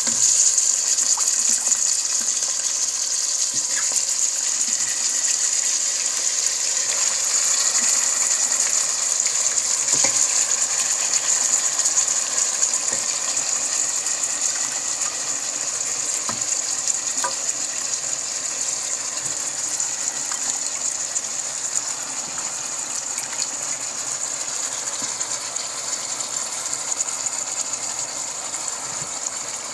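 Chicken pieces, onions and peppers sizzling in hot oil in a pot: a steady frying hiss that slowly fades, with a few light clicks.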